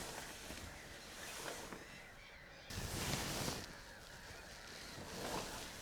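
Geese honking faintly, with a brief rush of noise about three seconds in.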